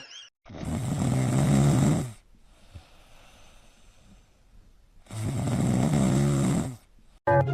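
Snoring: two long, loud snores with a low rattling buzz, about three and a half seconds apart, with quiet breathing between them.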